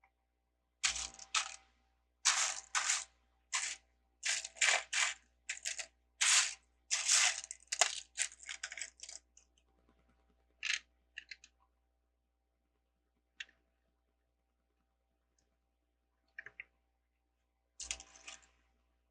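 Small plastic LEGO pieces clattering as hands sort and rummage through loose bricks, in a quick run of rattling bursts for the first several seconds, then a few separate clicks as pieces are picked out or set down.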